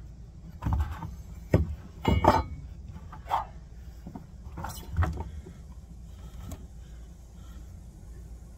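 Small metal parts and tools being handled: a string of separate clinks and knocks, about half a dozen in the first five seconds, then only faint handling sounds.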